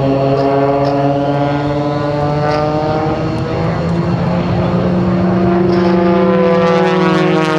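Propeller-driven aerobatic airplanes flying overhead, their piston engines droning steadily. The pitch rises about four seconds in and shifts again near the end as power changes or the planes pass.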